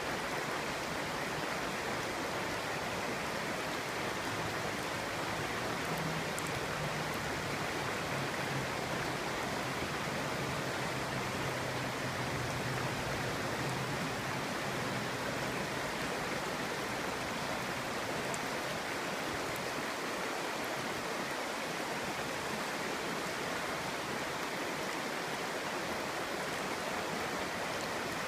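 Clear stream flowing, a steady babble of running water.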